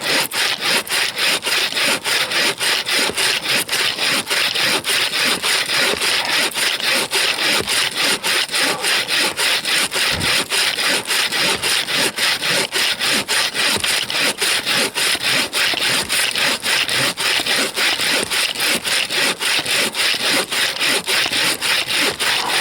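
Bow saw cutting through a frozen log by hand in steady, rhythmic strokes, about two a second.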